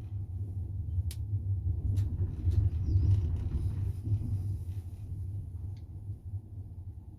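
Inside a double-decker passenger train carriage, the wheels rumble steadily and low on the rails, with a few sharp clicks now and then.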